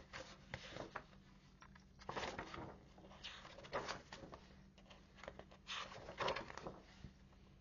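Rustling and soft handling knocks of a picture book being picked up and opened, in three or four short bursts.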